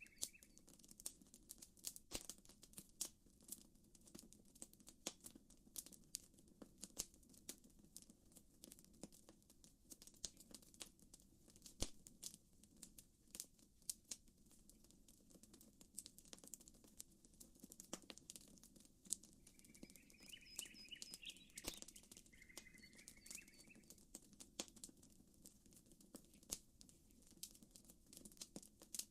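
Campfire crackling and popping in quick, irregular snaps over a soft, steady low wash. About twenty seconds in, a bird calls in two short chirping phrases a few seconds apart.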